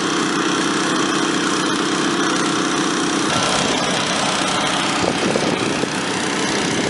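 Small gasoline engines of water pumps running steadily while they fill the AquaDam with water. About halfway through, a steady tone drops out and the engine sound changes.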